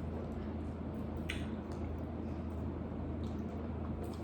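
People eating chicken wings: faint wet squishing chewing and mouth sounds with a few soft clicks, over a steady low hum.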